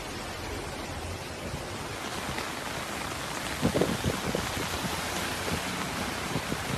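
Heavy storm rain rushing steadily, with a few low thuds about three and a half seconds in and growing a little louder toward the end.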